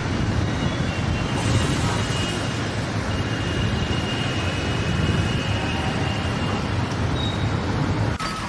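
A large engine running steadily with a low rumble.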